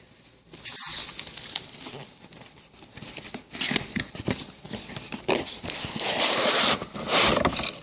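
Tablet box being unboxed by hand: irregular crinkling and tearing of plastic wrap and packaging, with scrapes and rustles of the cardboard.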